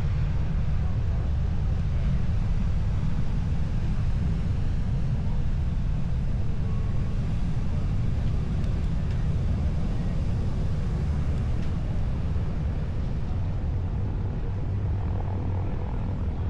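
Steady low rumble of heavy big-wave surf breaking and surging.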